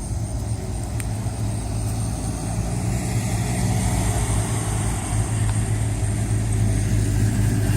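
Motor vehicle engine running steadily at idle, a low hum that grows a little louder near the end.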